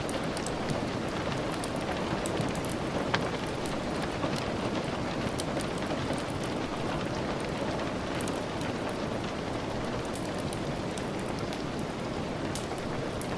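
Steady rain falling, with the sharp crackle of a wood fire scattered through it; one louder snap about three seconds in.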